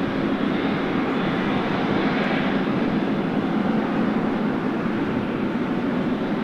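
Boeing 777F freighter's GE90 jet engines running steadily: an even rumble with a faint high whine above it, mixed with wind noise.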